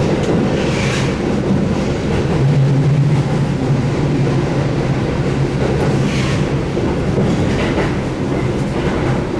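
Running sound of a Keihan 8000 series electric train heard inside the car as it slows into the terminal: wheels rumbling on the rails under a steady low hum.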